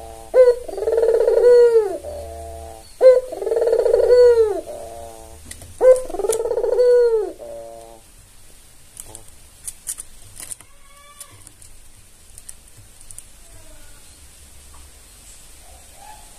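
White albino puter dove (Barbary dove) cooing: three loud, drawn-out coos in the first seven seconds, each ending in a short series of quick trailing notes. After that it goes much quieter, with only faint scattered clicks.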